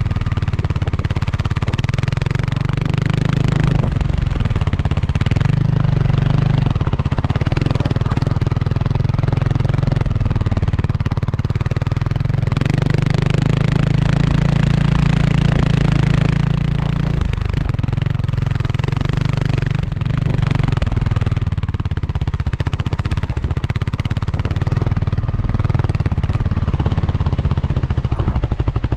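Kawasaki KLX300R dirt bike's single-cylinder four-stroke engine running under way, its pitch shifting up and down every few seconds with throttle and gear changes.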